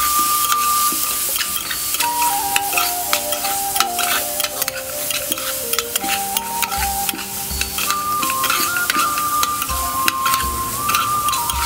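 Chicken feet sizzling and crackling in hot oil in a pan as a spatula stirs them, with frequent short clicks of the spatula and spitting oil. A simple background melody plays over it.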